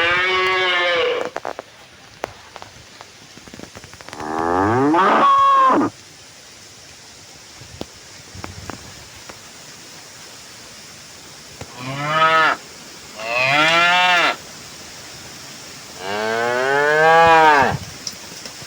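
Cattle mooing: five long moos, one at the start, one about four seconds in that rises in pitch, and three close together near the end.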